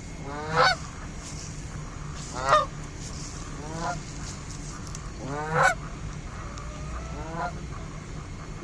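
Canada geese honking: five separate upward-sweeping honks spread over the stretch, three loud and two softer.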